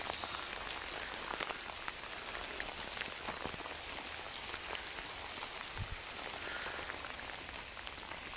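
Steady rain falling, with many single drops tapping sharply here and there.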